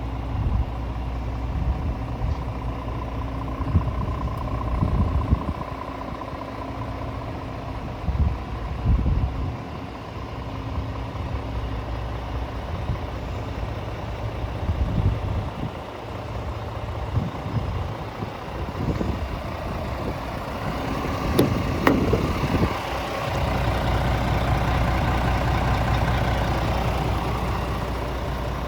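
Diesel engine of a Scania S450 truck idling steadily, with irregular low buffeting surges coming and going over it.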